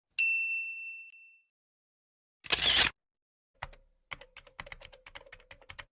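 A single bright, bell-like ding that rings and fades over about a second, a short hiss about two and a half seconds in, then a run of rapid, irregular clicks for the last two seconds.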